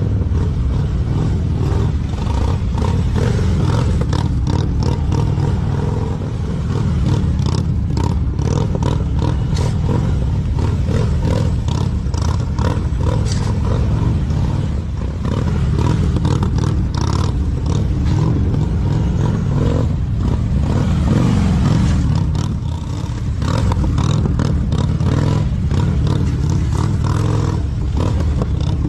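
Motorcycle running continuously, its level dipping and swelling a few times, with frequent clattering and scraping knocks throughout.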